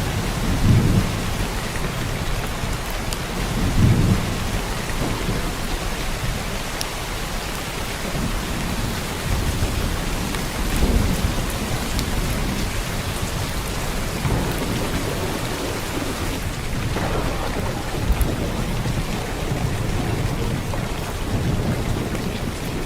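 Heavy downpour of rain hissing steadily, with several low rolls of thunder rumbling under it.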